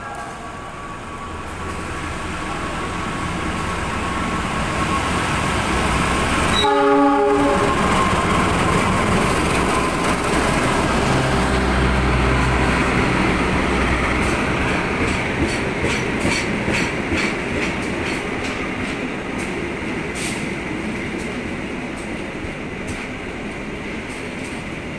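A diesel-hauled passenger train arriving alongside the platform: its horn sounds briefly at the start and again about seven seconds in. A heavy rumble swells and then slowly fades, with wheels clicking over rail joints in the second half.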